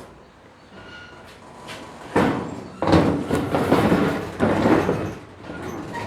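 Rough scraping and rattling, like something sliding or being dragged, starting about two seconds in and lasting about three seconds.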